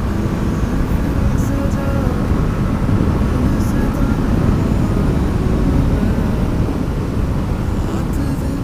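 Yamaha MT-15 motorcycle's single-cylinder engine running steadily while riding, with a heavy low rumble of road and wind noise on the action camera's microphone.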